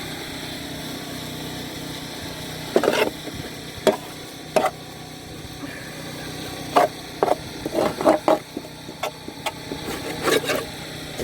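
Caked grass build-up being knocked and scraped off the underside of a riding mower deck with a hand tool: irregular scrapes and knocks starting about three seconds in, over a steady low hum.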